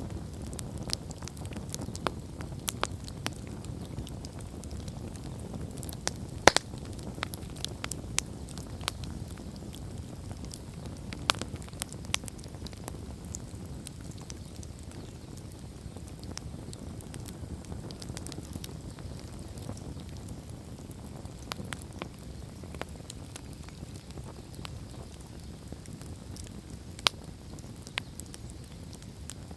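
Wood campfire burning: a steady low rumble of the flames with irregular sharp crackles and pops from the burning logs, a few of them loud, about six seconds in, eleven seconds in and near the end.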